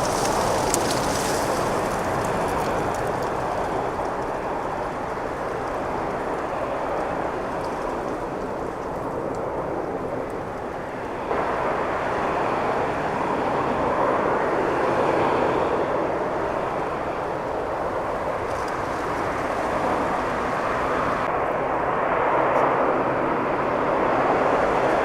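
Jet airliner engines running at high thrust, a steady, loud rushing noise. The sound changes abruptly about eleven seconds in and thins in its upper range about twenty-one seconds in.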